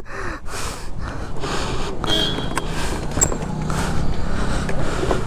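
Traffic and road noise: a steady rumbling hiss with brief faint voices.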